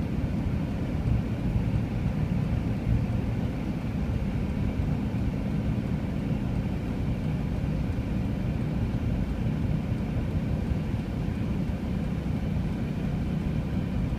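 Four-wheel-drive vehicle driving on a snow-covered road: a steady low rumble of engine and tyre noise.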